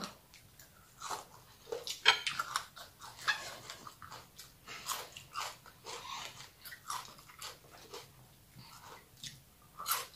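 Chewing crunchy shredded green mango salad: a run of short, irregular crunches and bites.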